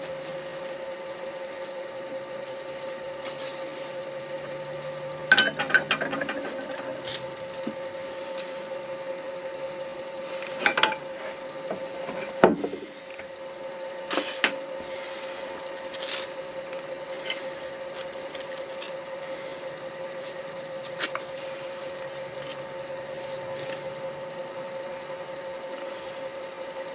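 Midi lathe running with a steady motor hum. A few short bursts of scraping come as a turning tool cuts the spinning acrylic pen blank, the loudest about five seconds in and again around eleven to fourteen seconds.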